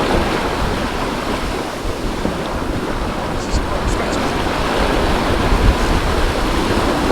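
Wind buffeting the microphone over the steady wash of water, with no engine running.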